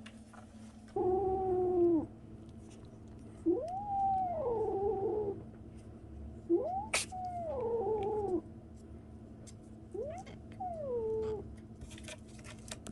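Young kitten giving four drawn-out meowing cries, each one to two seconds long and rising then falling in pitch. There is a sharp click about seven seconds in.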